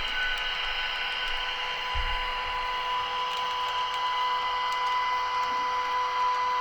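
Märklin H0 model train running on the track: a steady, even-pitched motor whine over a rolling hiss, with a few faint clicks.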